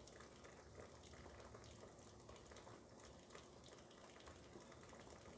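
Faint, steady rain, a soft even hiss.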